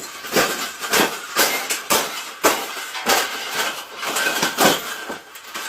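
Irregular clattering knocks, two or three a second, like hard objects being worked and knocked together.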